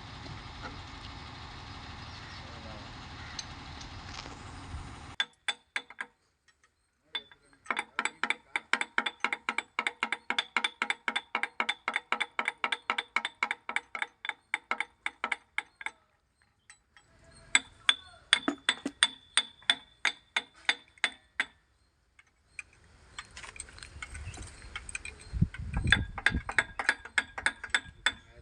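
A steady background noise stops abruptly about five seconds in. After that, a ratchet spanner clicks in long runs of even, metallic clicks, about four a second, with short pauses between the runs, as bolts are worked on the crane's engine.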